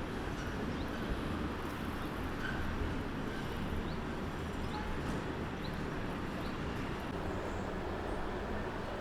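Steady low city street ambience of distant traffic, with faint short rising bird chirps about once a second.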